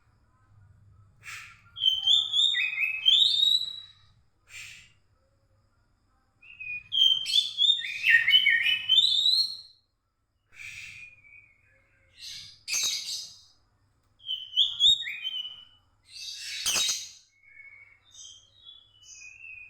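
Oriental magpie-robin (kacer) singing: bursts of quick, rising whistled notes with a few harsh rasping notes, in phrases of about two to three seconds with short pauses between. Softer short chips near the end.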